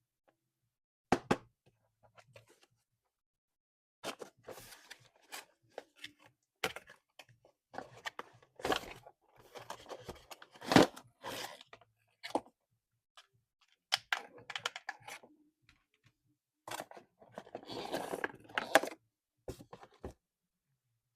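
Handling and opening toy packaging: scattered sharp clicks and knocks, with short bursts of crinkling and tearing, most of it in the middle and again near the end.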